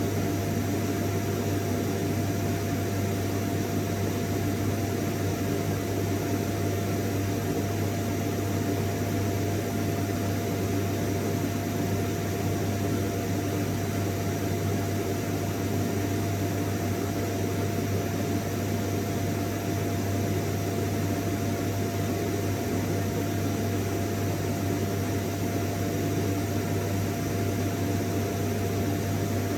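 Vacuum cleaner running steadily, unchanging: a low motor hum and a thin steady whine over the rush of air.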